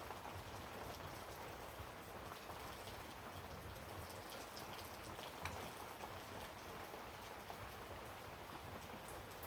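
Faint, steady rain-like patter with fine scattered ticks, and one small click about five and a half seconds in.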